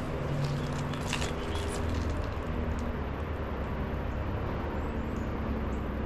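Steady low rumble with a faint hum, like an engine or machine running, and a few light clicks about a second in.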